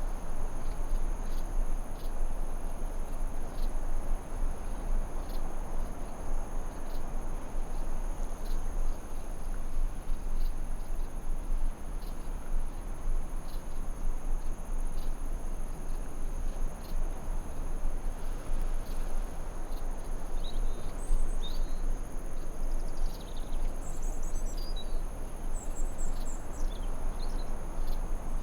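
Forest ambience: a steady high insect trill over a constant low rushing noise, with short bird chirps joining in the last third.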